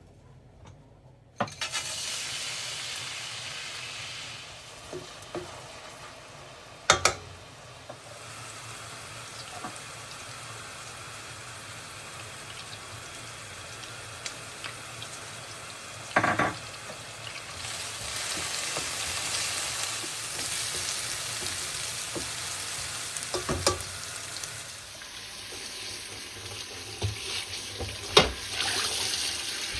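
Food frying and sizzling in a pan, starting suddenly about a second and a half in, with a few sharp knocks of a utensil against the pan while it is stirred.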